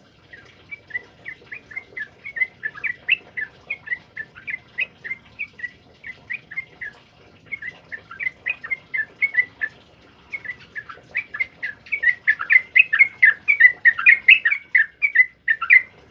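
Male yellow-vented bulbul (trucukan) singing a long, rapid run of short, liquid, chirping notes, with a brief pause in the middle and a louder, denser stretch near the end.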